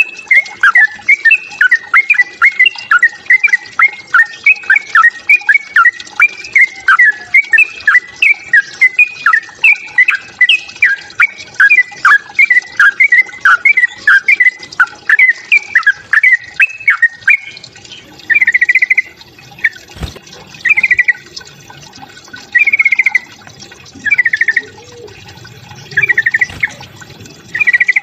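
Yellow-vented bulbul (trucukan) song: a dense run of quick, loud chirping notes, giving way after about two thirds of the way through to short rapid trilled phrases repeated every couple of seconds. It is the agitated 'fighting' song used to provoke other bulbuls into singing.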